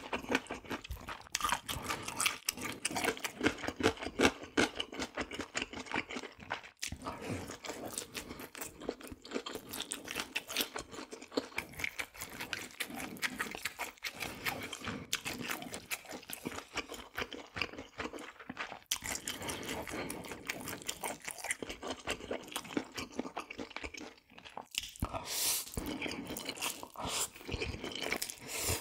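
Close-miked eating: a person biting and chewing crunchy food, with many quick crunches one after another and a few short pauses.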